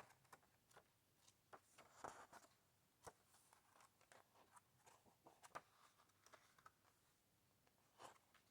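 Faint, scattered rustles and soft clicks of book pages being handled and turned.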